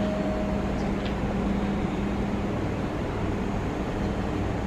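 A Meitetsu 6000 series electric train standing at the platform, its onboard equipment giving a steady low hum.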